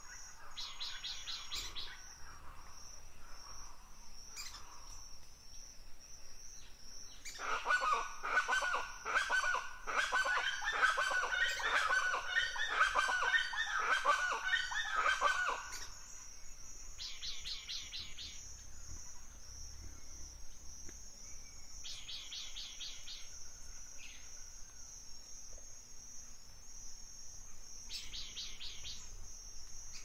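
Birds calling in a forest: a short, rapid, high trill repeated several times, and from about 7 to 16 seconds a loud, harsh, rapid chattering call that is the loudest sound. A steady high hiss runs underneath.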